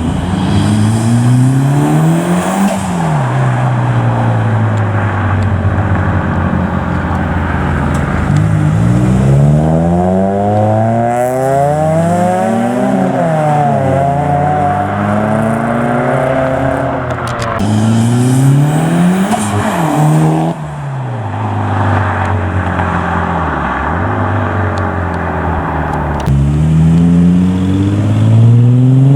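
Modified Japanese performance cars revving hard and accelerating away. The engine pitch climbs and drops again several times as one car after another pulls out.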